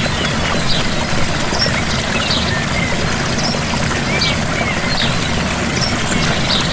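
Gentle waterfall: a steady rush of falling water, with short bird chirps now and then above it.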